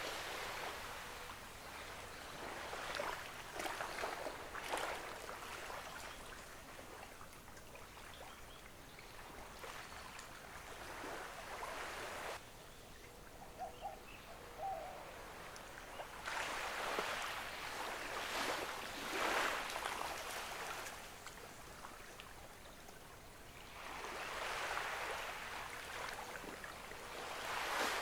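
Gentle ocean waves washing onto a beach, the surf swelling and fading again every several seconds.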